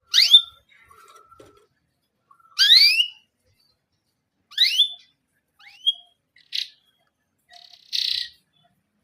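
Canary giving separate rising 'criit-cuit' chirps with pauses of one to two seconds between them, then two short buzzy notes near the end.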